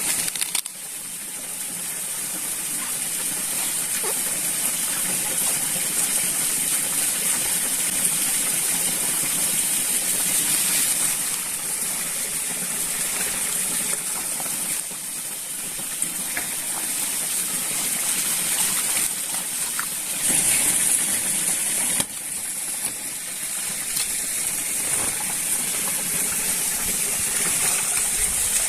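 Steady rush of flowing water, with a continuous high-pitched hiss above it.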